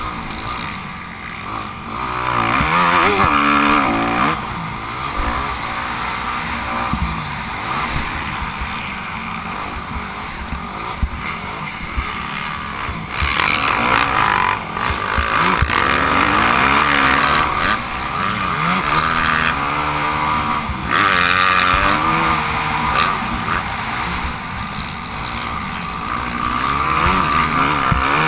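Motocross bike engine being ridden, revving up and dropping back again and again as the throttle opens and closes, over a steady rushing noise.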